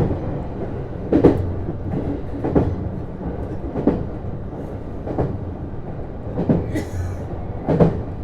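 JR East HB-E210 series hybrid train heard from inside the car while running. Its wheels click over rail joints about once every second and a quarter, over a steady low rumble.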